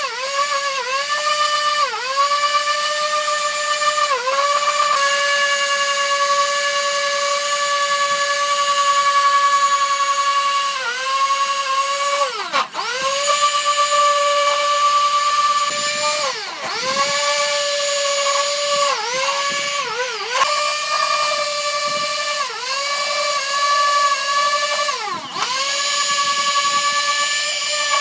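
High-speed electric power tool whining steadily, its pitch dipping and recovering over and over as it is loaded or the trigger is eased, twice dropping almost to a stop.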